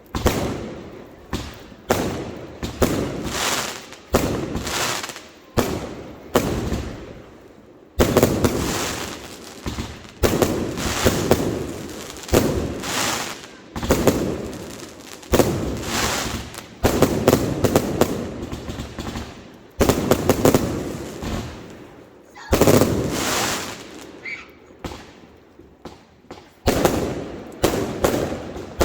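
Fireworks exploding in a steady barrage: sharp bangs about every second or two, each dying away in a rumbling, crackling tail, with a few louder bursts that overlap.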